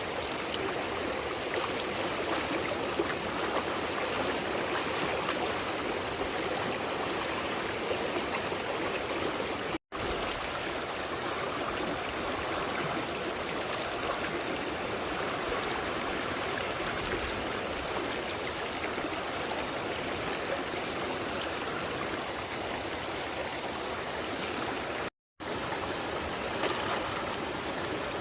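Steady rush of flowing water. It cuts out twice, briefly, about ten seconds in and again about twenty-five seconds in.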